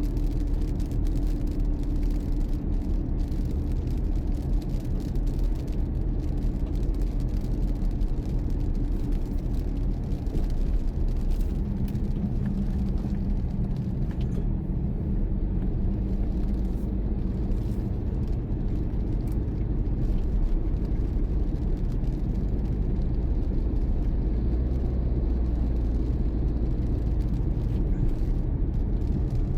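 Car being driven, a steady low rumble of engine and road noise; the engine's hum drops in pitch about twelve seconds in.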